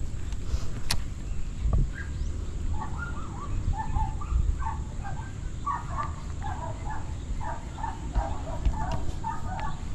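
Birds chirping in a quick run of short notes, starting about three seconds in, over a low steady rumble.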